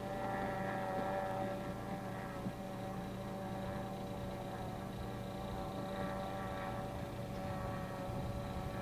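Electric boat motor running with a steady whine of several held tones.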